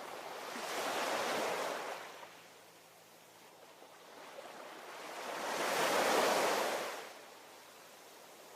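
Ocean surf: two waves swell up and wash away, the first peaking about a second in and a louder one around six seconds, with a low steady wash between them.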